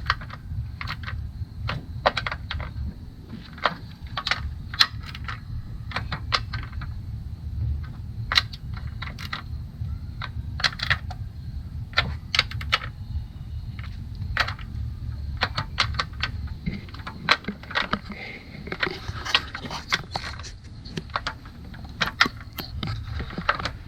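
Small hand ratchet clicking in short runs as intake manifold bolts are run down and snugged in a cross pattern, with quicker strokes near the end, over a steady low rumble.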